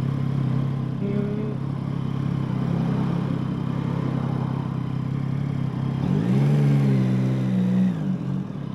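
Yamaha MT-09's inline three-cylinder engine with Akrapovič exhaust running at low speed in a low gear. Its revs rise briefly about six seconds in and drop back near the end.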